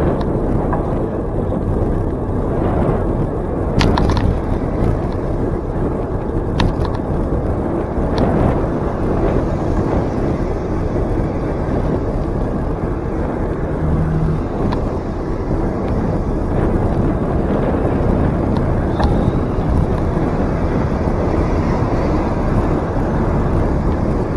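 Steady rumble of a bicycle rolling along a trail, tyre and wind noise, with a few sharp clicks and rattles from bumps along the way.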